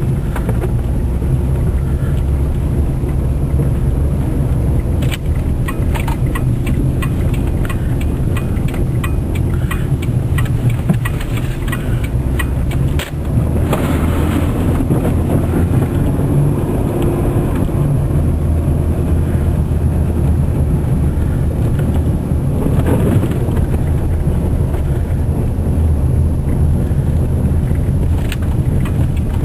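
A car driving through snow: steady engine and road rumble, with a run of irregular clicks and crackles from about five to thirteen seconds in.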